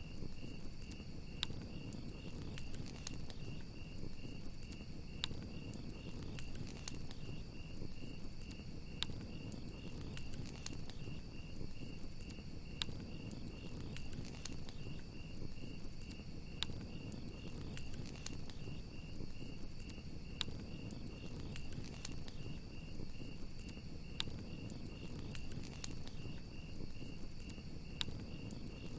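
Crackling campfire, with sharp irregular pops over a low steady rumble, under a continuous chorus of crickets chirping in a high, fast-pulsing trill.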